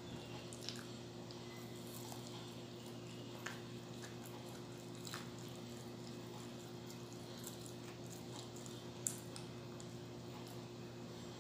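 Faint chewing and mouth sounds of someone eating banana cue, with a few small clicks, the sharpest about nine seconds in, over a steady low electrical hum.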